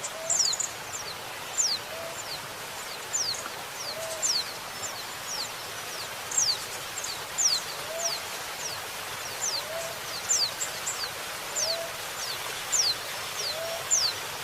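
Female white-eye (pleci) calling in thin, high notes that each slide downward, one to two a second, over a steady hiss of flowing water. A short low note from another bird repeats about once a second.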